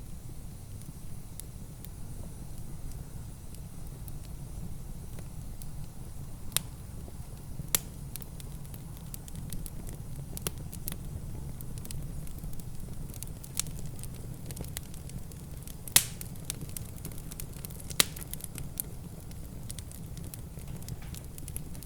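Wood fire crackling, with scattered sharp pops, the loudest about 8, 16 and 18 seconds in, over a steady low rumble.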